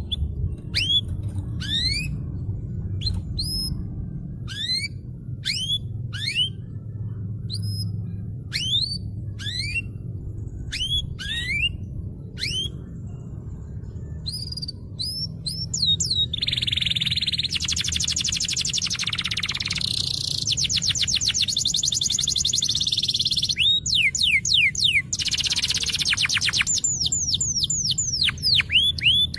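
Domestic canary singing: a series of rising whistled notes, one or two a second, then about halfway in a fast rolling trill, with quick rising notes again near the end. A steady low rumble lies underneath.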